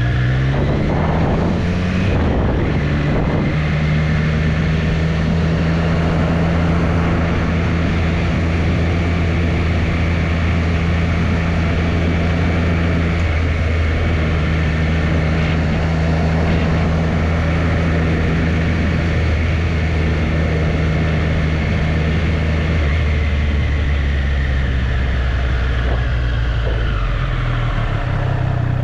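Triumph Street Triple's inline three-cylinder engine rising in revs during the first couple of seconds, then running at a steady cruising speed. Its pitch falls near the end as the bike slows.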